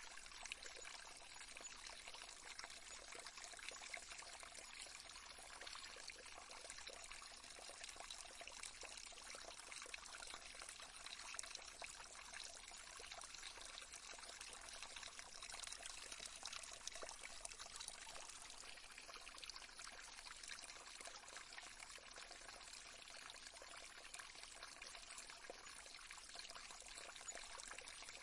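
Faint, steady trickling of a running stream.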